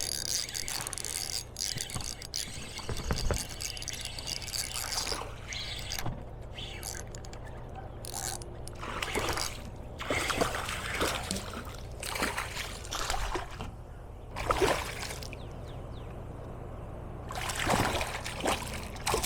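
Water trickling and splashing in short, irregular bursts.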